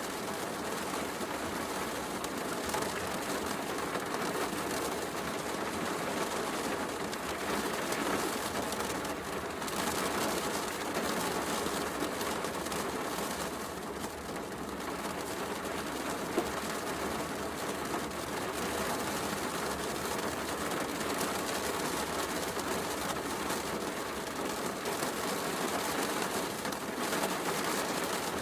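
Heavy rain falling steadily, mixed with a wood fireplace crackling, with one sharper pop about sixteen seconds in.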